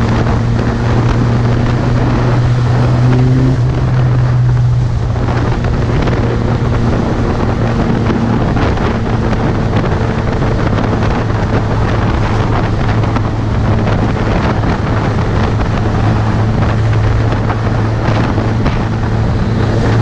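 Suzuki GSX650F's inline-four engine running steadily while riding, under heavy wind noise on the microphone. The engine note drops slightly about five seconds in.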